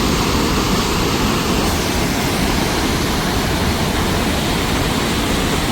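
Loud, steady rush of white water from the Kundal Shahi waterfall and its mountain stream.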